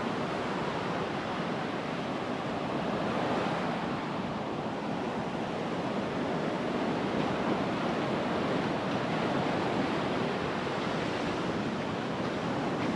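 Ocean surf washing steadily onto the beach, with some wind on the microphone.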